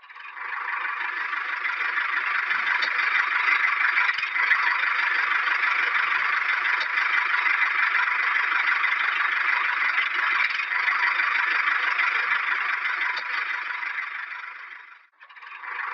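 A small electric motor and its gears running steadily with a fine rattling clatter, typical of a homemade toy tractor's drive. It builds up over the first second and cuts out briefly near the end.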